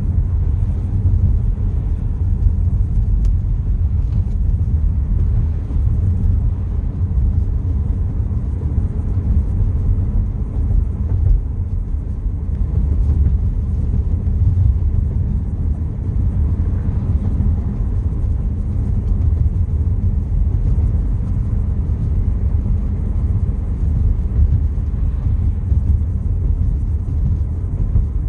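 Wind buffeting the microphone: a steady low rumble that wavers in loudness.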